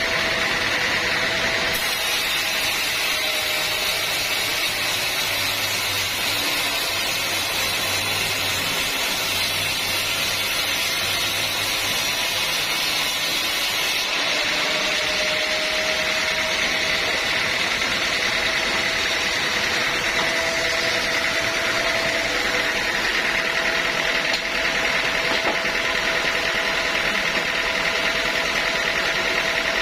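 Band sawmill running steadily, with continuous machine noise and a steady high whine.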